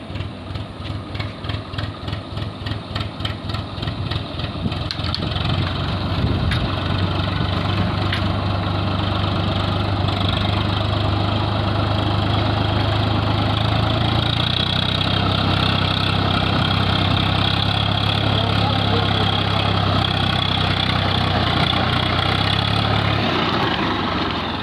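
Tractor's diesel engine running: slow, even thumps at about three a second at first, then it speeds up to a steady, higher hum from about five seconds in, which eases back near the end.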